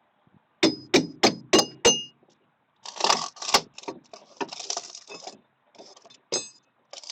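Five quick, sharp metal strikes with a ringing tone, about three a second, then scraping and clattering as material is worked loose.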